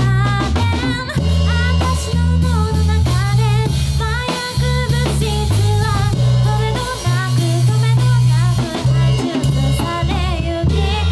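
A live rock band playing: a drum kit with bass drum and snare keeping the beat, under electric bass and guitar, with a singer.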